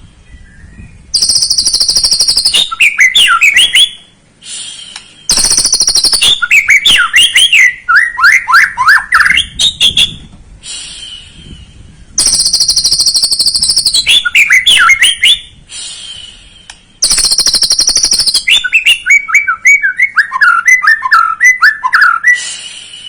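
Young white-rumped shama (murai batu) singing, loud and repeated: four phrases, each opening with a harsh high buzzy rattle, then a quick string of whistled notes sliding downward.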